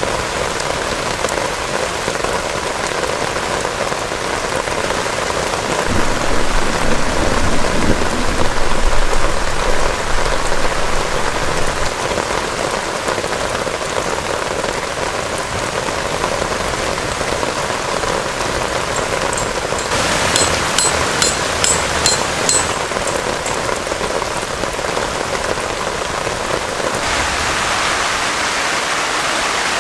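Heavy rain falling steadily, with a low rumble swelling about six seconds in and fading a few seconds later. About twenty seconds in, a quick run of sharp ticks lasts about three seconds, and near the end the sound turns into a brighter, steady rush.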